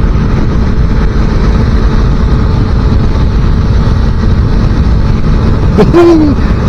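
Heavy wind buffeting on the microphone of a 250cc motorcycle being ridden at road speed, with the engine's steady drone underneath.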